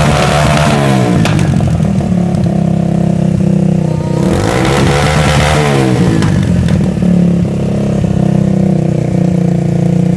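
Vehicle engine revving through its exhaust: it falls back from a rev at the start, blips again about four seconds in with a rise and fall in pitch, then settles into a steady idle.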